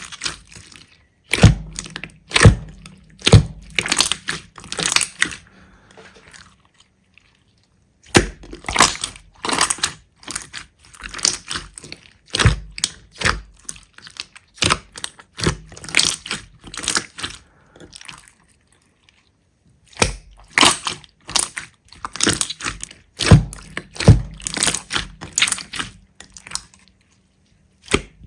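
Slime being squished and poked, giving runs of crackling clicks that stop for a second or two between runs.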